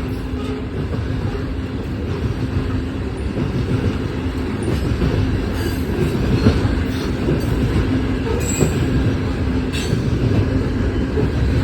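CSX freight train cars rolling past at a grade crossing: a steady rumble of steel wheels on the rails with scattered clicks.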